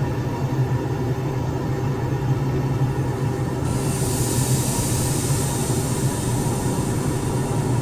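R142 subway train running through the station, a steady low rumble and hum. A high hissing noise comes in about four seconds in.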